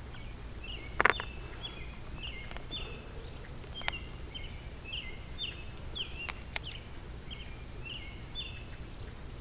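A bird repeats short chirps, each dropping in pitch, about two a second, over a steady low rumble. A few sharp clicks come from a plastic cable tie being handled, the loudest about a second in.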